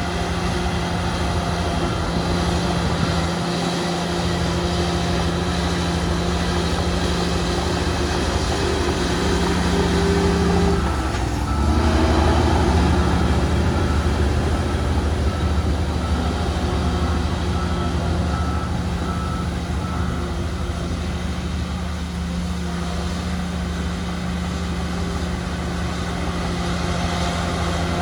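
Heavy diesel earthmoving machinery running steadily, with the engine note shifting and briefly getting louder about eleven seconds in. A faint, evenly repeated high beep sounds in the middle.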